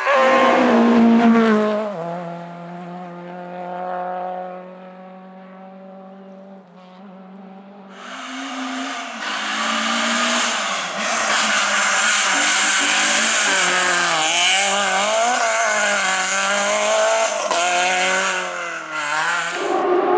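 Hill-climb competition cars at full throttle. One car is loud for the first two seconds, then its note drops to a steadier, quieter drone as it pulls away. About eight seconds in, a car comes up loud again, its engine pitch rising and falling as it is revved hard between gear changes and bends.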